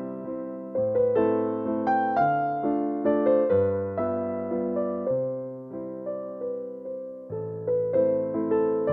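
Slow, gentle background piano music: single notes and chords struck and left to fade, over a bass note that changes every second or so.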